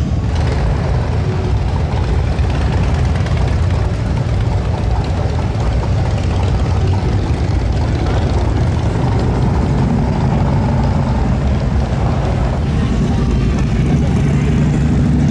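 Motorcycle engines running steadily, a dense low rumble.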